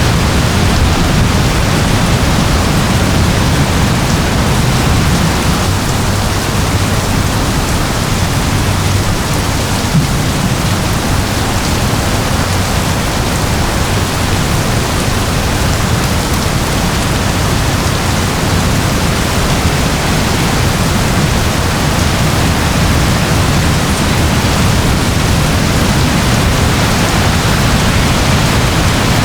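Steady rain, a dense even hiss with a full low rumble and no distinct drops or thunderclaps.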